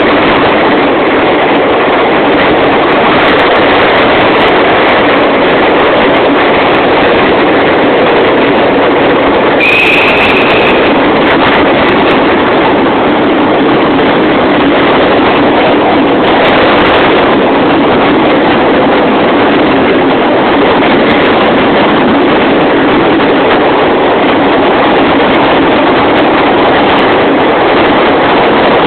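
Loud, steady noise of a train running through a long railway tunnel, with a brief high squeal about ten seconds in.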